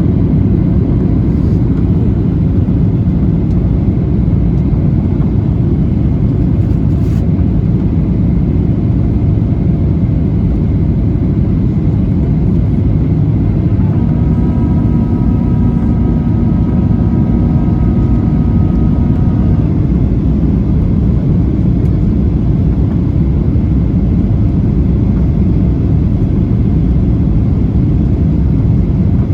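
Cabin noise of a Boeing 737-800 in descent: a loud, steady rush of airflow and engine rumble, heaviest in the low end. About midway a faint steady whine of several tones joins it for about five seconds.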